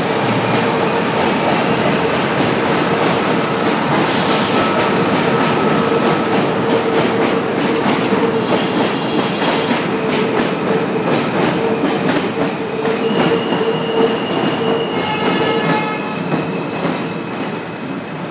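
A train running past on rails, loud and close: a steady rumble with a high, steady squeal. In the second half the wheels clack in a regular rhythm, and the train eases off near the end.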